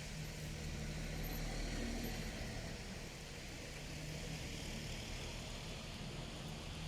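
A steady low engine hum with an even hiss over it.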